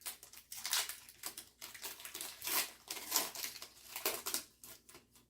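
Foil booster-pack wrapper crinkling as a trading-card pack is handled and opened: a run of irregular crackly rustles that thin out near the end.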